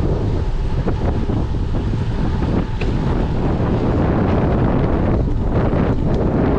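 Wind buffeting the microphone: a loud, steady rumble with no pitch.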